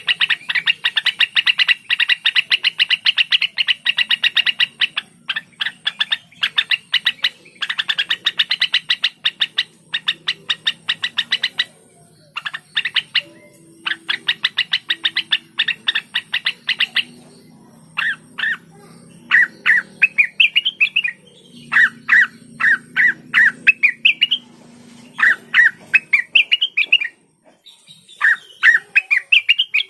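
Blue-winged leafbird (cucak wilis, or rengganis) singing. First come long trains of rapid, chattering chirps. From about 18 s in, these give way to separate quick upswept whistled notes.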